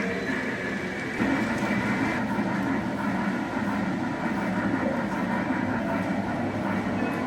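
Lionel Legacy O gauge model of Santa Fe steam locomotive 2926 running on the track: a steady rumble of motor, wheels and rail that gets louder about a second in.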